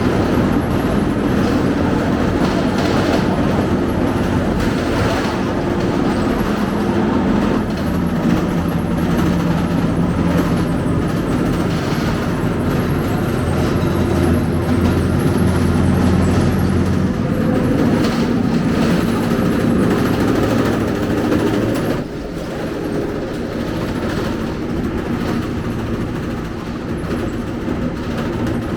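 Scania K270UB city bus's diesel engine running as the bus drives, its note rising and falling in pitch with road noise, easing off and going quieter about three-quarters of the way through.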